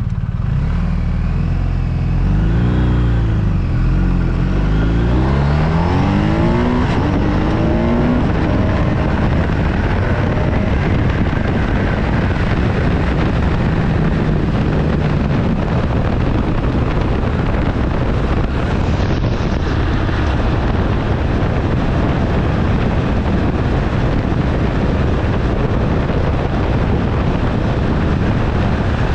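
BMW R1250RT's boxer twin engine pulling away and accelerating through several upshifts, each gear a rising pitch. After about eight seconds it settles into a steady cruise, with heavy wind rush over the microphone covering the engine.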